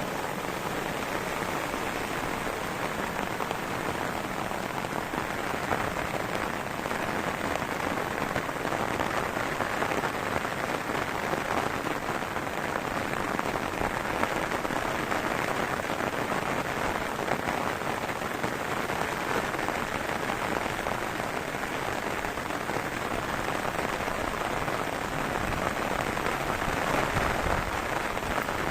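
Heavy rain falling steadily, a dense even hiss that swells a little now and then.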